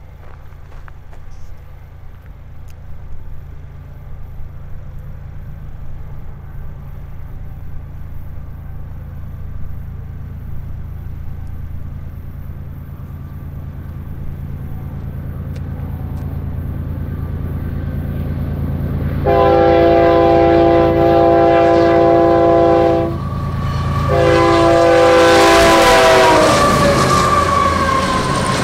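A westbound BNSF train's diesel locomotives approach with a low rumble that grows steadily louder. The locomotive's air horn then sounds twice, a long blast and a shorter one, its chord dropping in pitch as the locomotive goes by. A rush of wheels on rail follows.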